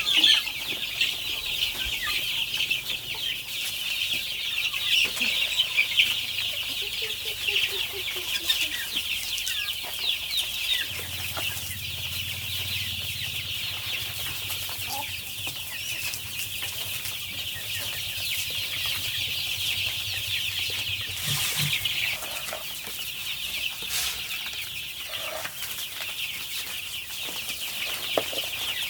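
A large flock of chickens making dense, continuous high-pitched chirping and peeping. A low steady hum joins in about a third of the way through for roughly ten seconds.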